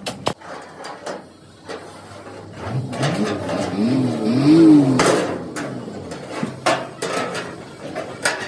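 Metal knocks and clatter of truck bodywork repair. Midway a pitched sound rises and falls twice, ending in a sharp knock about five seconds in.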